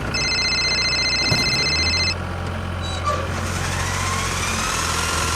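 Engine running steadily with a low drone, under a high steady beeping tone that lasts about two seconds near the start.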